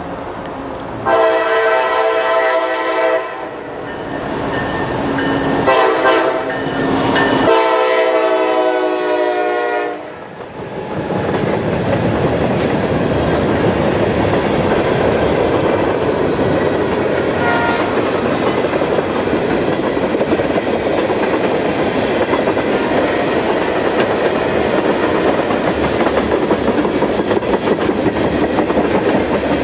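A Norfolk Southern freight locomotive sounds its chime horn in three blasts, long, short, long, about a second, six and eight seconds in. The train then passes close by with steady wheel and rail noise and clickety-clack.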